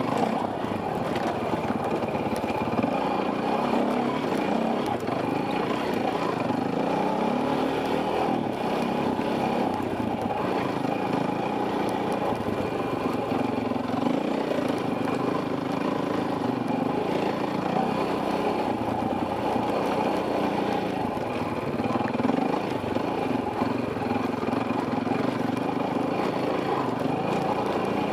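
Enduro dirt bike engine running continuously, its pitch rising and falling as the throttle is worked along the trail, heard from a helmet camera.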